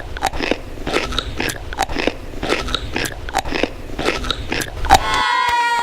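Crunchy food being bitten and chewed close to the microphone: irregular sharp crunches, several a second. Near the end the crunching stops and a high held tone begins.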